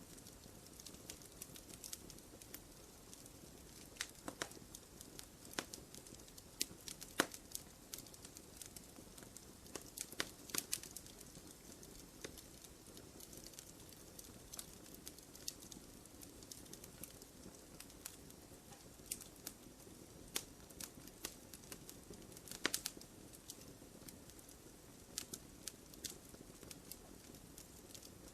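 Wood fire in a fireplace crackling: irregular small pops and snaps over a soft, steady hiss, with a few louder pops about a third of the way in and again past the middle.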